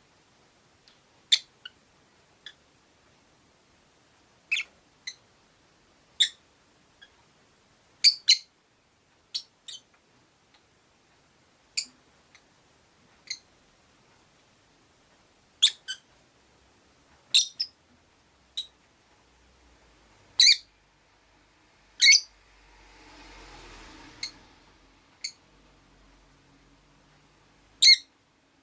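Rosy-faced lovebirds giving short, sharp, high chirps, one or two at a time at irregular gaps of a second or two. About two-thirds through, a faint low rumble of passing traffic swells and fades beneath them.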